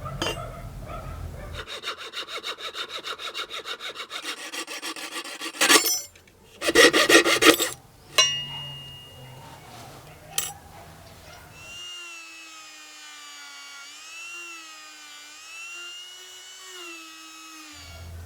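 A hand tool working a brass strip: a fast, even run of sawing or filing strokes, then a few loud rasping strokes. Later a steady pitched tone with a gentle waver in pitch sounds for about six seconds.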